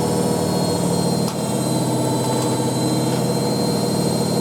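Hoover A3308 Computer Control 1100 washing machine spinning at one of its stepped spin speeds: a steady motor hum and whine with a high whistle on top, and a single short knock about a second in.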